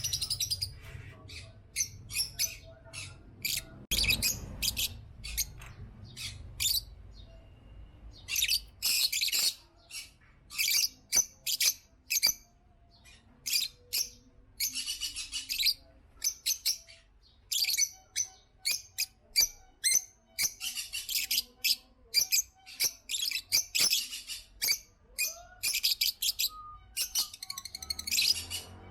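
Lovebirds chirping: many short, high-pitched calls coming in quick runs, with brief pauses between them.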